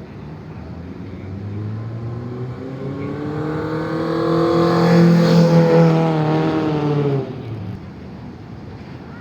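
A car's engine revving as it accelerates past, its pitch rising and growing louder to a peak about five seconds in, then dropping away abruptly just after seven seconds.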